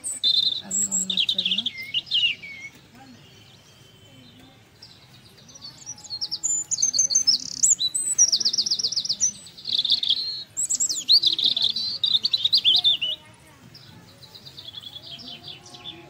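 Songbirds chirping and singing: a short burst of high chirps about a second in, then a longer run of quick, high trills and chirps through the middle, fading to softer chirping near the end.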